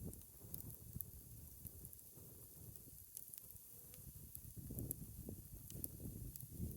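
Campfire crackling: scattered small sharp pops over a low, uneven fluttering rumble that grows stronger about two-thirds of the way in.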